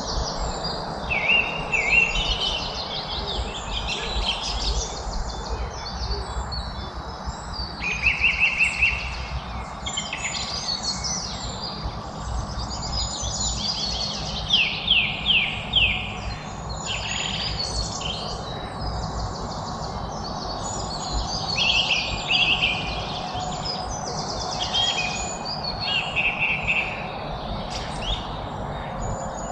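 Songbirds singing in overlapping phrases, several with rapid trills that rise and fall in loudness, over a steady low background rumble.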